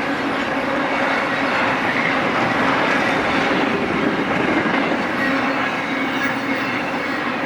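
BNSF intermodal freight train rolling past steadily, its wheels clicking over the rail joints, with a faint thin ringing tone held through the sound.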